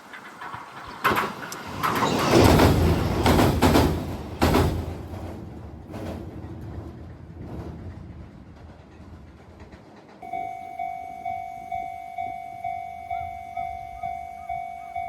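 A train passing close by, its wheels clattering over the rail joints, then fading away. About ten seconds in, a Japanese level-crossing warning bell starts, ringing about twice a second.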